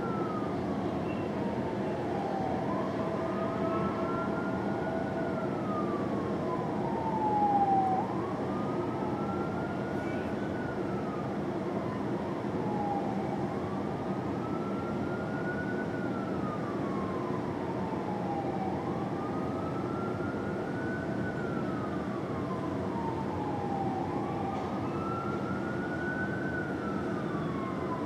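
Fire engine siren in a slow wail, its pitch rising and falling about every five seconds, over the truck's steady engine and road noise. It is briefly louder near the end of the first third.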